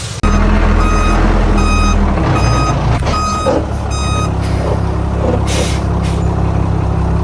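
Heavy diesel machine running steadily with its reversing alarm beeping about six times, stopping about four seconds in. There is a short burst of hiss about five and a half seconds in.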